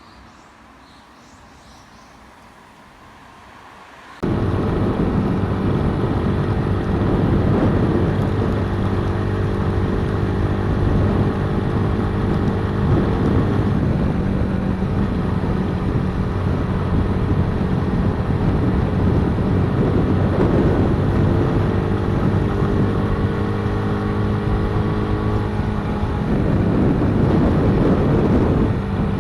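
Faint background, then about four seconds in, a Honda Super Cub 50's small single-cylinder engine starts running abruptly and keeps going at a steady cruising pitch, with wind and road noise while riding.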